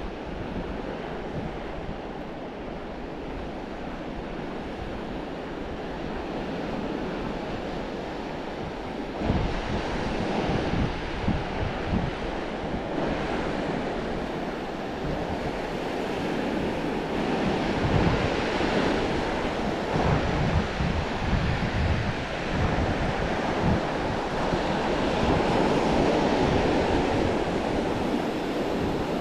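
North Sea surf: a steady rush of waves breaking on the shore, with wind buffeting the microphone in gusts that grow stronger about nine seconds in.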